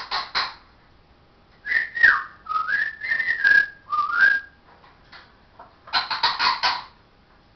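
Pet parrot whistling a short phrase of rising and falling notes, set between bursts of raspy chatter at the start and about six seconds in.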